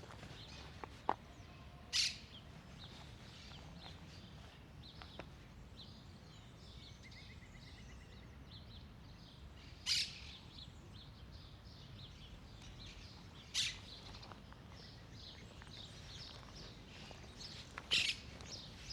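Outdoor park ambience: small birds chirping faintly and often, over a low steady background noise. Four short, loud, harsh calls stand out, several seconds apart.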